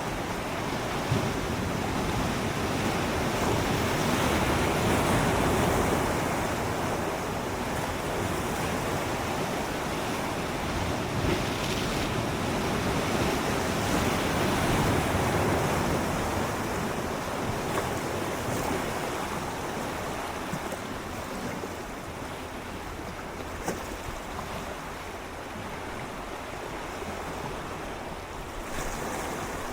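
Gentle sea waves swirling and lapping against shoreline rocks, swelling and easing in slow surges, with a few small splashes.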